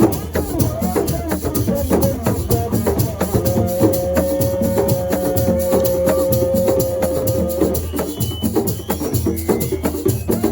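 Live assiko music: dense, fast hand percussion playing a driving rhythm. A single long note is held for about four seconds in the middle.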